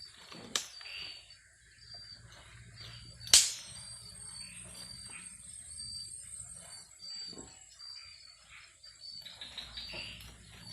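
Two sharp knocks, a lighter one about half a second in and a much louder one at about three and a half seconds. Behind them, insects in the forest chirp in an even, steady pulse.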